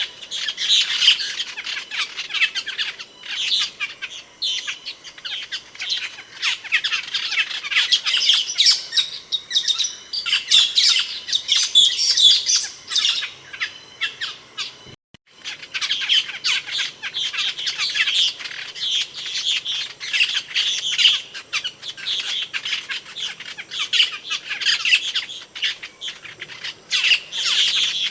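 Asian glossy starling (cucak keling) calling continuously in a dense run of sharp, high-pitched chirps and squawks, broken by a short gap about halfway.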